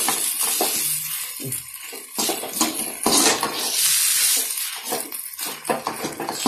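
Metal spoon stirring and scraping potatoes and onions in a kadai, with irregular clinks against the pan over the steady sizzle of the oil as they fry on a medium flame.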